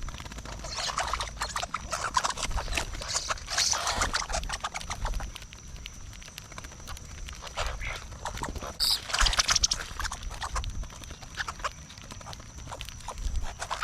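Irregular clicking, tapping and scuffling of birds and a squirrel feeding close to the microphone at a bird feeder.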